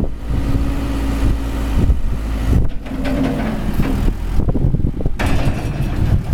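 Cat 420E backhoe loader's diesel engine running steadily.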